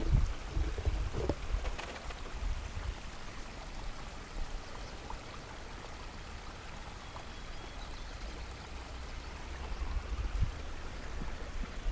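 Faint, even water ambience, a soft steady hiss, with low rumbles and a few small knocks just after the start and again near the end.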